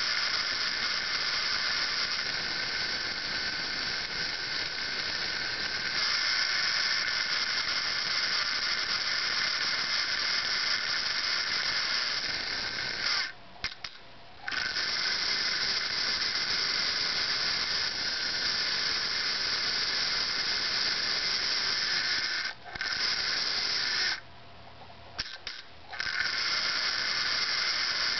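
Märklin 3065 model locomotive's electric motor and gearing running with a steady high whine. It cuts out briefly about halfway through and again twice near the end, the kind of dropout a diagnostics run is meant to show.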